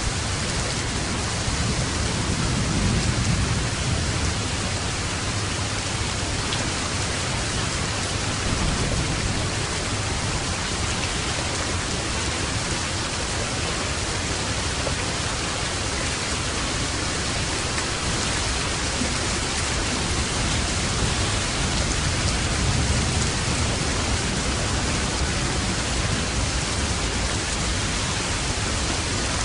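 Steady rain, with low thunder rumbling twice: once about three seconds in and again a little past twenty seconds.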